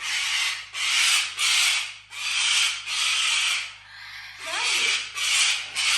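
A parrot screaming: a run of about eight harsh, loud squawks, each about half a second long, with a short break a little past the middle.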